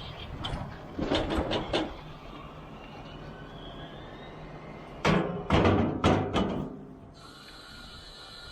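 A machine running steadily, with two bouts of loud banging and clattering, one about a second in and a louder one about five seconds in.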